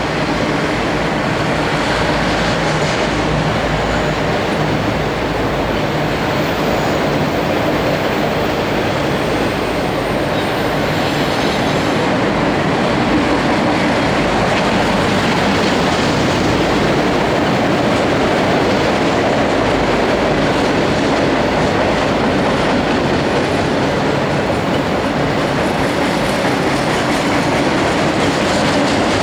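Freight train cars rolling steadily past, wheels clicking over rail joints, with a faint high wheel squeal in roughly the first half.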